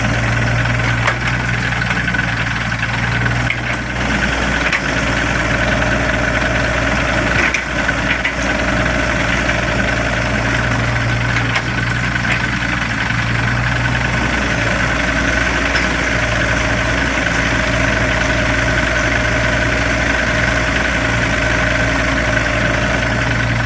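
Doosan DX55 mini excavator's diesel engine idling steadily, with a few light clicks over the running engine.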